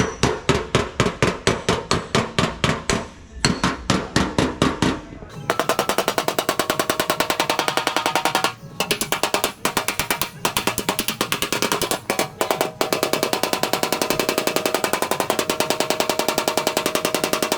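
Metal hammering on car body sheet metal, even ringing strikes about four a second, giving way about five seconds in to a fast rapid-fire rattle of a pneumatic tool working the panel, with a few short pauses.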